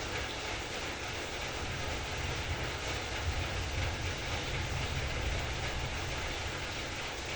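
Heavy rain falling steadily in a dense, even hiss with a deep rumble underneath.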